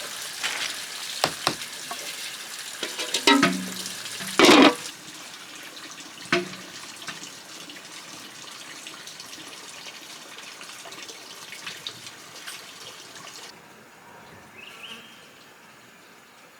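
Running, splashing water, with knocks and clatter in the first few seconds, the loudest a bit over four seconds in. After that the water runs more quietly and drops away about three-quarters of the way through.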